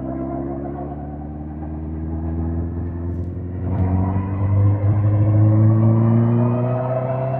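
2005 Suzuki GSX-R1000 K5's inline-four engine under way, its pitch rising slowly as the bike gathers speed. It gets louder a little past halfway as the throttle opens further.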